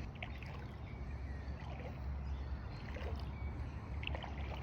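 Water sloshing and swishing as a person wades through floodwater, with a few small splashes over a steady low rumble.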